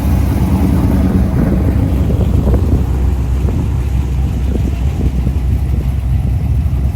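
A car engine running loud and close, steady, with a deep low end.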